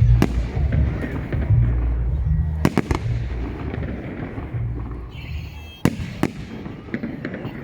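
Fireworks display: sharp bangs of bursting shells, one near the start, a pair about three seconds in and another pair about six seconds in, over music with a heavy bass line that fades toward the end.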